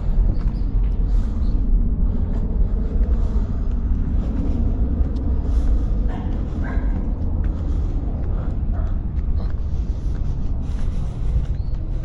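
Town street ambience: a steady low rumble with an even haze above it and a few faint short higher sounds about halfway through.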